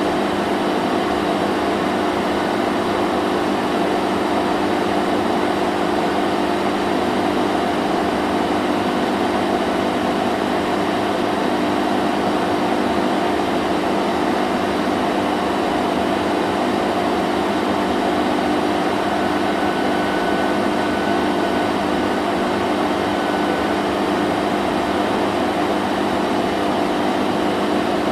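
Vacuum cleaner running steadily: an even motor hum and rush of air at constant speed, with no changes.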